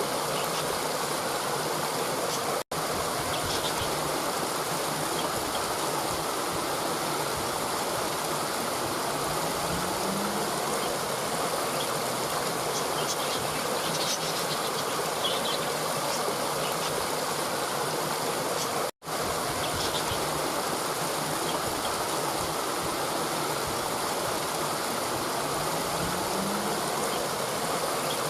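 Steady rushing water, like a stream, running at an even level. It cuts out for an instant twice, once about three seconds in and again about two-thirds of the way through.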